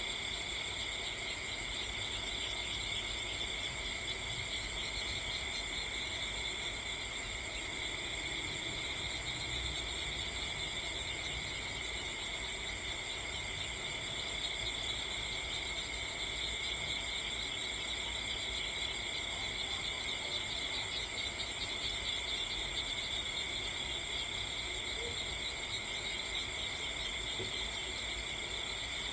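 A steady, unbroken chorus of chirping insects, like crickets at night, in several high-pitched layers, over a low rumble.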